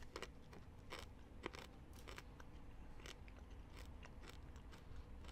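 Faint crunching of coconut chips being chewed, a scatter of small crisp crackles.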